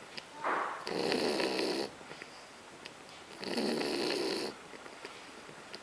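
French bulldog snoring in its sleep: two long snores about three seconds apart, each lasting about a second, with faint clicks in the quiet between them.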